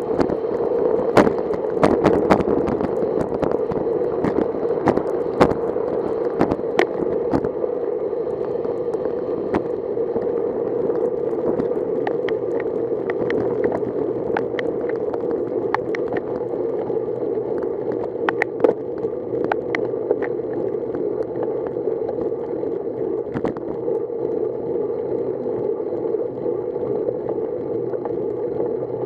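Riding noise from a bicycle on a wet road: a steady hum of tyre and wind noise, with sharp clicks and ticks scattered through it, thickest in the first half.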